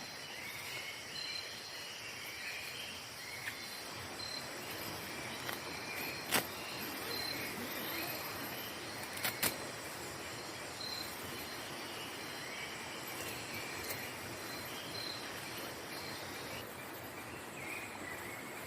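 Night insects chirping in the forest: a high, evenly repeating chirp over a steady background hum of other calls. A few sharp cracks stand out, the loudest about six seconds in and two close together a few seconds later.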